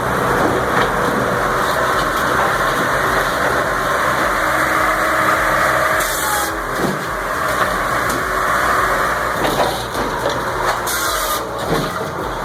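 Engine-driven firewood processing machine running steadily under load, with two short hissy bursts partway through.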